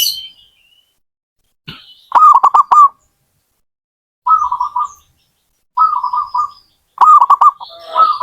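Zebra dove (perkutut) cooing in short phrases of rapid, rolling notes, four phrases about a second and a half apart. A brief high chirp comes right at the start.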